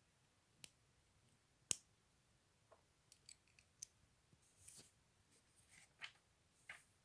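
Plastic LEGO pieces being handled and pressed together: a scattering of small sharp clicks, the loudest about two seconds in, with a few soft rustles between them.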